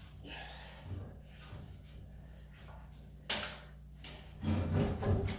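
Wooden cabinet being knocked about as it is broken apart: a small knock about a second in, a sharp crack a little after three seconds, then louder, heavy thuds near the end.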